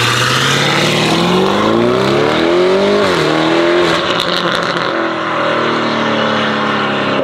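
Novitec-exhausted Lamborghini Urus twin-turbo V8 accelerating hard: the engine note climbs for about three seconds, drops at an upshift, then carries on at a steadier, slowly falling pitch.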